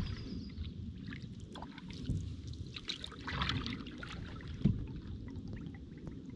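Canoe paddle strokes: water splashing and trickling off the paddle blade, with one sharp knock a little before the five-second mark.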